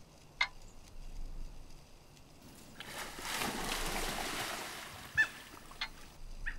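Short, sharp bird calls: one about half a second in, then three in quick succession near the end. Between them a hissing noise swells and fades away.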